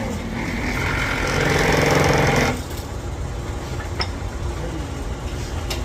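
A pneumatic tool hammering rapidly for about two seconds, over a steady low engine rumble, with a couple of sharp metal clicks later.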